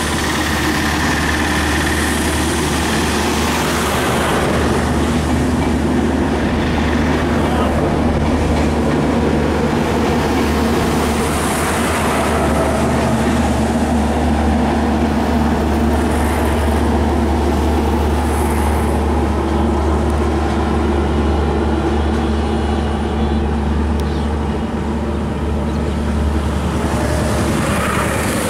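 A long rake of LHB passenger coaches rolling past on broad-gauge track, making a steady rumble of wheels on rails.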